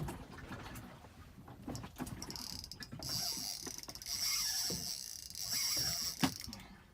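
Fishing reel's drag buzzing as a hooked fish pulls line off, in a high-pitched stretch from about two seconds in to about six seconds. There are a few sharp knocks, one near the end.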